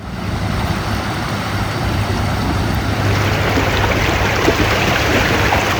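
A vehicle driving through floodwater: a steady engine hum under a rushing wash of water spray that grows louder about halfway through.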